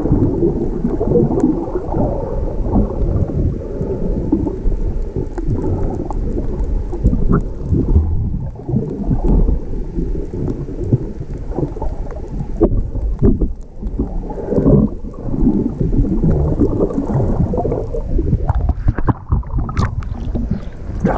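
Rough, stormy sea surf churning and breaking, heard as a loud, muffled, low churning with little high end and uneven surges throughout.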